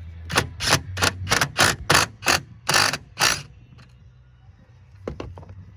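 Cordless power driver run in about nine short trigger bursts, roughly three a second, loosening the nut on a truck battery's positive terminal clamp. Two sharp clicks follow a little after the bursts stop.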